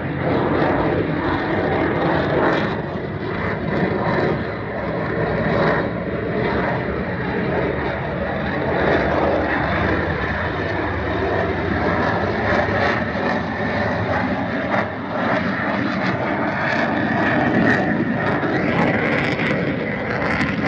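Fixed-wing aircraft flying a display, its engine noise a loud, steady rush with a faint whine that grows a little stronger near the end.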